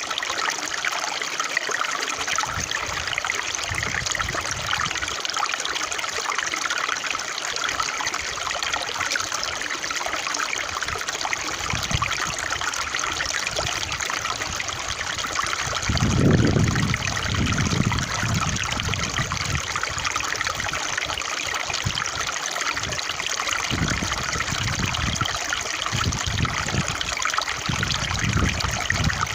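Running stream water trickling steadily, with a few low rumbles partway through and again near the end.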